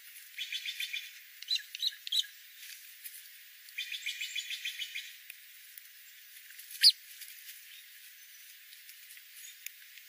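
Wild birds calling: two short runs of quickly repeated high notes, a few scattered chips, and one loud, sharp chip about seven seconds in.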